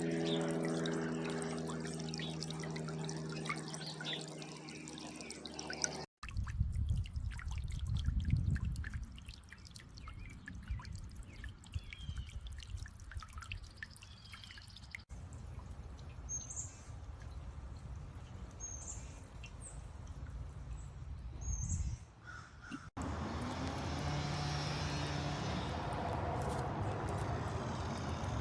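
Solar bird bath fountain splashing and trickling water, in several short clips. One clip opens with a steady low hum, others carry a low rumble, and a few short high bird chirps come in the middle.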